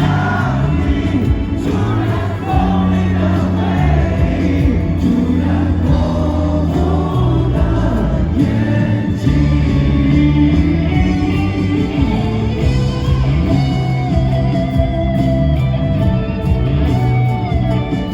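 Live rock band music with drums, bass and guitar, and singing carrying the melody.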